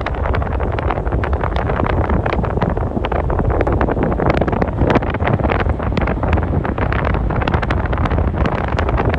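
Wind buffeting the microphone: a loud, steady rumble with constant crackling gusts.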